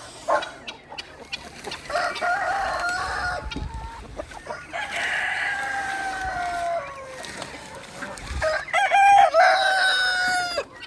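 Roosters crowing: three long crows in a row, each drawn out over about two seconds and falling in pitch at the end, the last one starting with a few short choppy notes.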